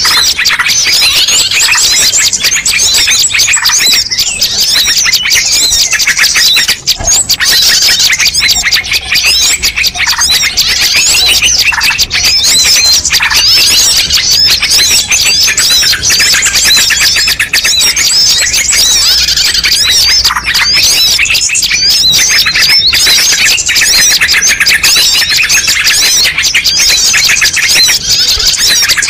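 Dense, continuous chorus of many small songbirds chirping and calling over one another in quick rising and falling notes: a mixed bird-lure (pikat) recording.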